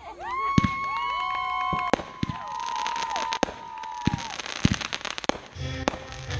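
Fireworks going off: several whistling fireworks sound together, their steady whistles dropping in pitch as they die out, among sharp bangs and crackling.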